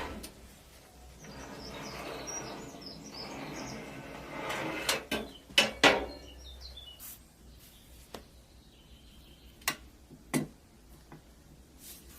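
Hand work on small toy-truck parts: a few seconds of rubbing, then a quick cluster of sharp knocks and clicks, followed by a few single clicks. Faint bird chirps are in the background.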